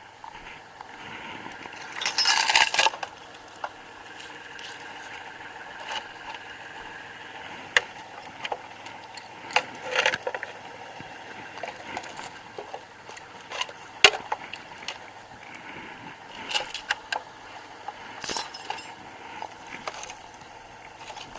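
Steel lifting chain clinking and rattling as it is handled and adjusted on an engine hoist, with a louder rattle about two seconds in and sharp metal clinks now and then over a steady background hum.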